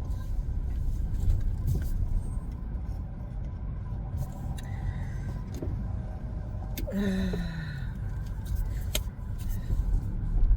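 Car engine running at low speed, heard from inside the cabin as a steady low rumble. A few faint clicks, and a short tone falling in pitch about seven seconds in.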